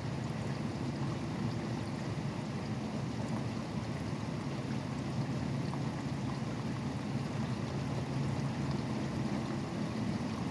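Steady rain falling, mixed with the continuous low rumble of highway traffic.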